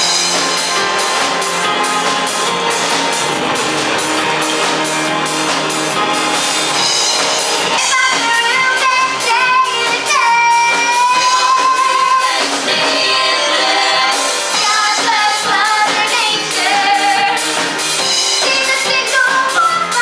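A woman singing a pop-style song live over instrumental backing with a steady drum beat.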